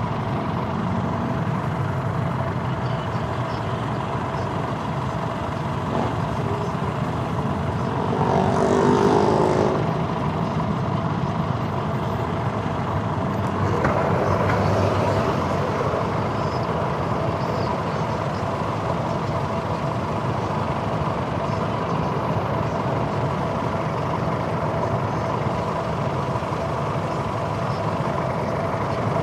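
Steady engine and road noise of a motorcycle riding in traffic, with other vehicles around it. A passing vehicle swells louder about nine seconds in, rising in pitch, and again around fifteen seconds in.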